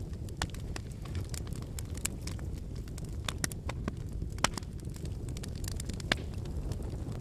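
Wood fire burning: a steady low rush of flame with frequent irregular crackles and snaps from the burning logs, two sharper pops standing out about four and six seconds in.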